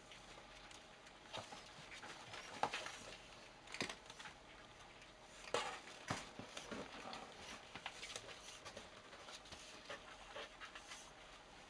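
Two cats playing: irregular soft pattering and scuffling of paws, with a few sharper knocks, the loudest about two and a half and five and a half seconds in.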